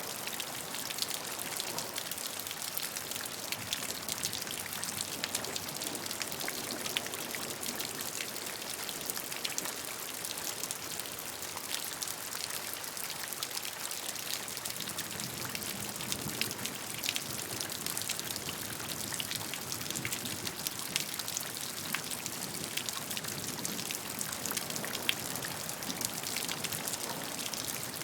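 Steady rainfall: a constant hiss of water, dotted throughout with many quick, separate drop ticks.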